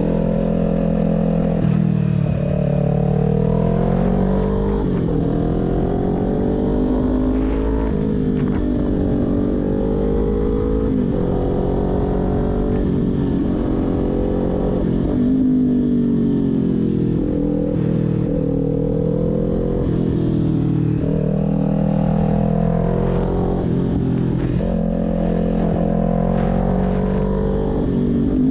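Kawasaki Ninja 400's parallel-twin engine ridden hard along a twisty road. The note climbs under throttle, then falls away sharply every few seconds as the rider backs off and shifts for the next turn.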